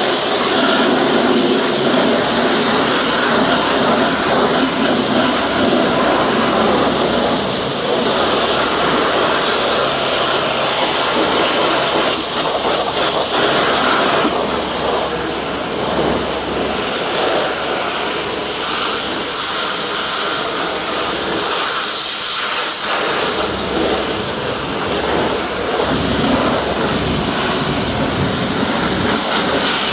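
Pressure washer spraying a jet of water onto the car, a steady loud hiss of spray that changes a little as the jet moves, with a brief thinning around two-thirds of the way through.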